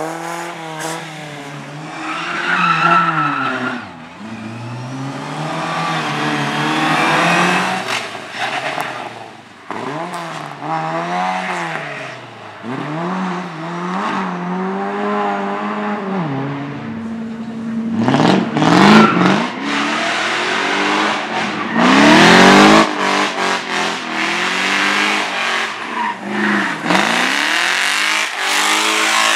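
Slalom race car's engine revving hard, its pitch climbing and dropping again and again as it shifts and brakes between gates, with tyres squealing. The loudest, harshest stretch comes about two-thirds of the way through.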